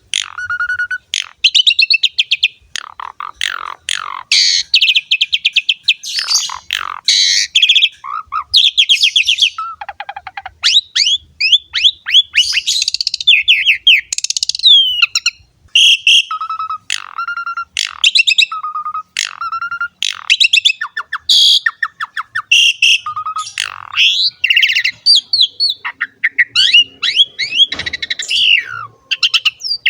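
Javan pied starling singing at length: a fast, varied run of loud whistles, harsh buzzy notes and rising and falling glides, broken by short pauses.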